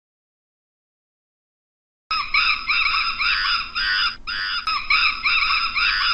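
Silence, then about two seconds in a rapid run of high-pitched animal calls begins, many short arching calls a second, repeating without a break.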